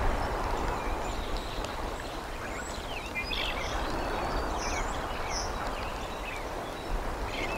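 Steady rain noise on an outdoor nest-cam microphone, with a few faint high bird chirps about three to five seconds in.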